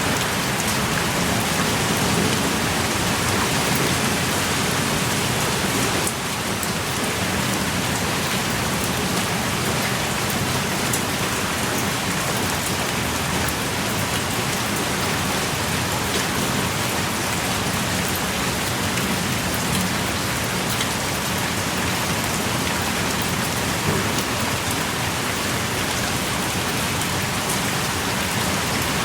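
Heavy rain pouring steadily, with scattered close drops ticking through it. The rain eases slightly about six seconds in.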